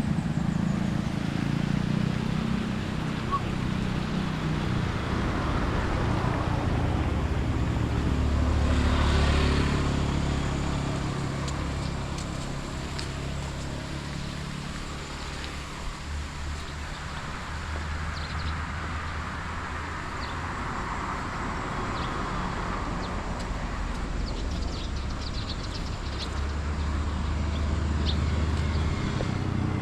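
Road traffic: cars passing on a street, with a steady low hum underneath and the noise swelling as one goes by about a third of the way in and another about two-thirds of the way through.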